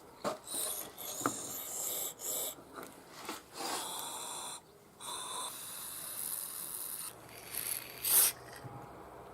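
Hand work on small carburetor parts: irregular scraping and rubbing with sharp clicks and short hissing stretches.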